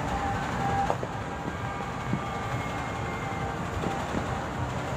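Distant New Year's fireworks going off in a continuous rumble with scattered faint pops.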